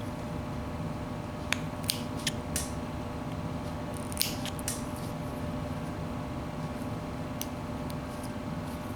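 Whittling knife slicing into a small wooden apple: a handful of short, sharp cuts, several close together in the first half and two more near the end, over a steady low hum.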